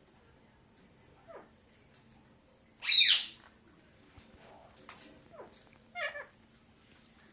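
Pet parrot calling: a loud, harsh screech about three seconds in, with shorter, quieter calls before and after it.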